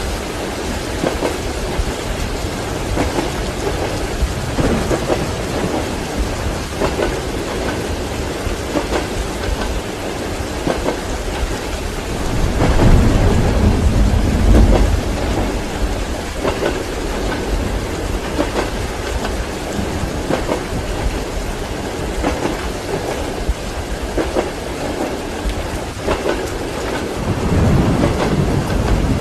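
Steady rain with rolling thunder: a loud low roll about twelve seconds in that lasts a few seconds, and another building near the end, over the faint running of a train.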